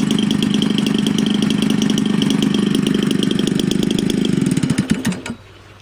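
Homelite 30cc two-stroke engine, converted from a string trimmer for a model airplane and fitted with a larger Walbro carburetor, running steadily at low speed. About four and a half seconds in it is shut off and sputters to a stop.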